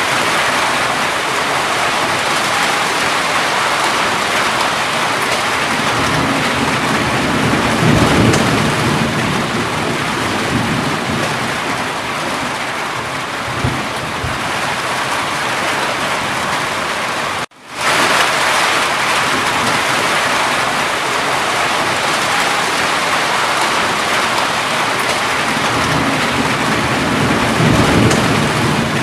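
Steady heavy rain with low rolling thunder rumbles, one about six seconds in and another near the end. The sound cuts out abruptly for a moment a little past halfway, then the rain resumes.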